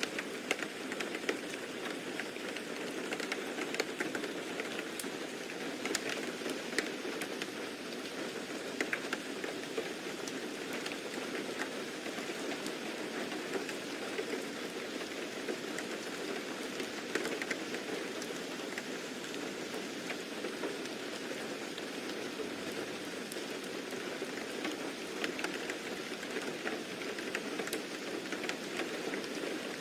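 Steady rain falling, with scattered individual drops ticking through the hiss.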